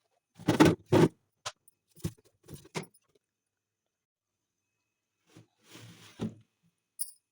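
Things being handled and set down: two loud knocks about half a second and a second in, a few lighter clatters after them, then a stretch of rustling and a small sharp click near the end.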